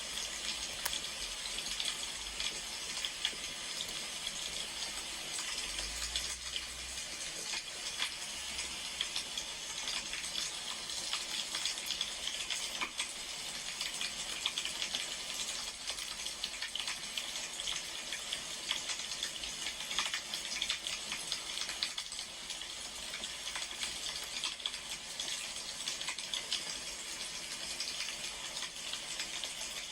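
Wood fire burning: a steady hiss with scattered small crackles and pops.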